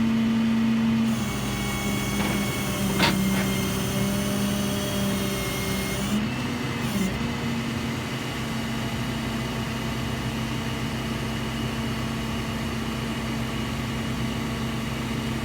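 A vehicle engine running steadily at idle. Its hum drops slightly in pitch about a second in and comes back up about halfway through, with a brief click around three seconds.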